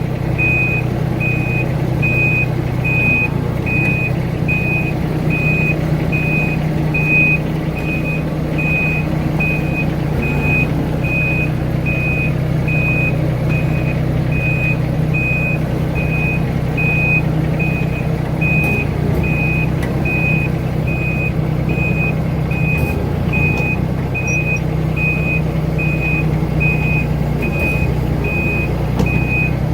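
Mini excavator's diesel engine running steadily, with its warning alarm beeping a high, evenly repeated tone the whole time.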